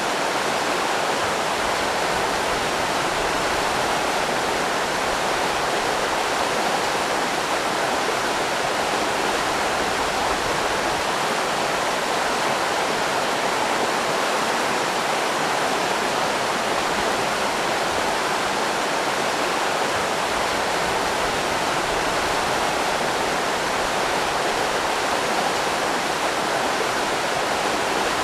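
River rapids: water rushing steadily over rocks, an even unbroken rush.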